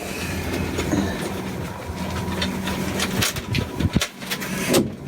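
Steady vehicle running noise with a low hum and scattered clicks and rattles.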